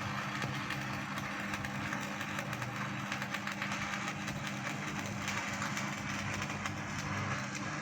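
A machine running steadily: a constant low hum with a noisy hiss over it and faint rapid ticking, without change.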